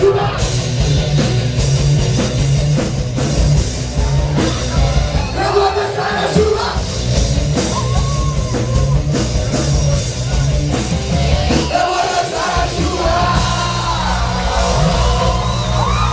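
Loud live rock music: a band with bass and drum kit playing, with singing over it.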